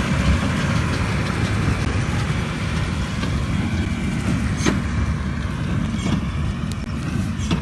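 Massey Ferguson 7618 tractor and big baler working in the field, heard as a steady rumble under heavy wind buffeting on the phone's microphone, with three faint clicks in the second half.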